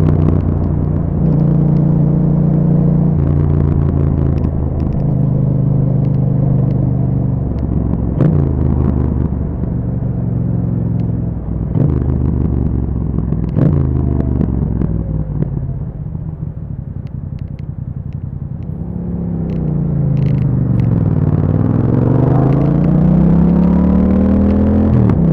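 Yamaha MT-07's 689 cc parallel-twin engine through an Akrapovic exhaust with a dB killer, ridden on the road, its revs stepping up and down through gear changes with a few sharp cracks. Past the middle the revs drop away and the engine quietens, then it pulls back up near the end.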